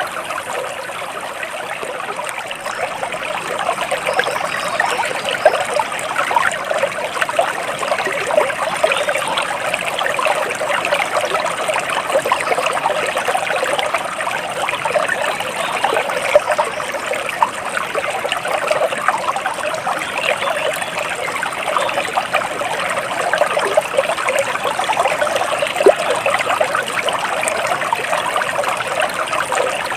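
Stream water flowing and trickling steadily, an even, bubbling rush without breaks.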